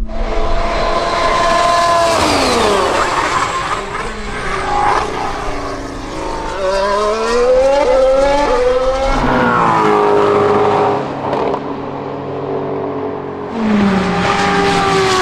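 Race car engines at high revs passing by, one after another, each dropping in pitch as it goes past, with stepped climbs in pitch through the gear changes in between.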